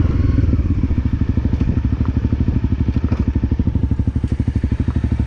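Honda CRF250L's single-cylinder four-stroke engine coming off the throttle and settling to an even putting idle as the bike rolls to a stop. A few light clicks sound over it.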